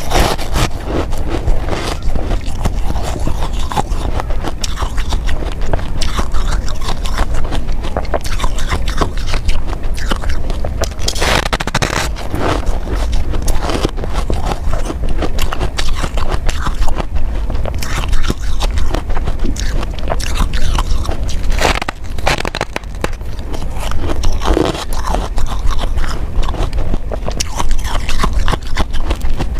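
Ice from a freezer being bitten and chewed close to the microphone: continuous crunching mixed with scraping.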